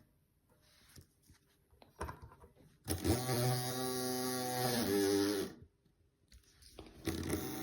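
Small electric motor of an OO gauge model locomotive running with a steady whirring hum for about two and a half seconds, stopping, then starting again near the end; a few faint clicks come before it.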